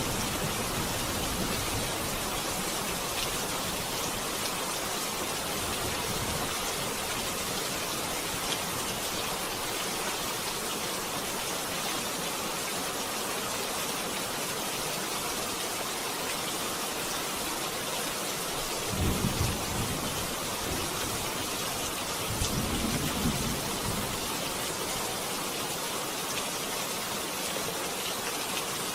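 Steady rain, an even hiss throughout, with two brief low rumbles, one about two-thirds of the way in and another shortly after.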